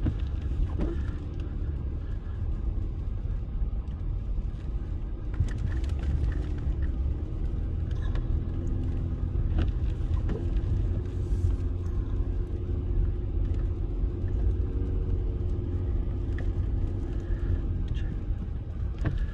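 Steady low rumble of a vehicle's engine running, with a faint even hum and a few light clicks.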